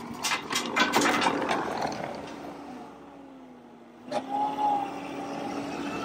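Skid steer running a hydraulic rotor grinding attachment through stony soil, with a rapid clatter of rocks striking the rotor in the first second or so. The engine note then sags and the sound drops away, until a sharp knock about four seconds in and the engine picks back up.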